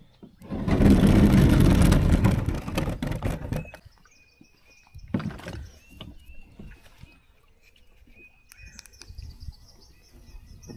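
A loud rushing, scraping noise for about three seconds, then a single knock. After that, birds chirp repeatedly over a quiet background.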